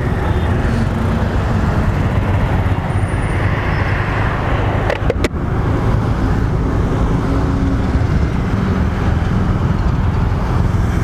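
Steady noise of motorcycles running in a group, with a brief click about five seconds in.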